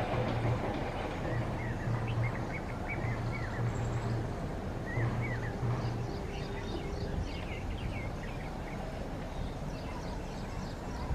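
Birds chirping over a steady background hiss, with a low hum that comes and goes in the first half.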